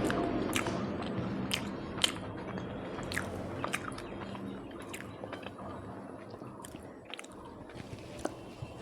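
A person chewing and biting food close to the microphone, with irregular sharp wet clicks from the mouth.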